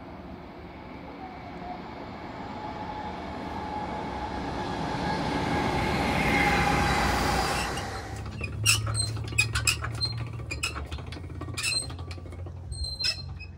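A passenger train approaching and passing on the rails, its rumble and wheel noise swelling to a peak about six seconds in and then cutting off abruptly. A string of sharp clicks and knocks follows over a low steady hum.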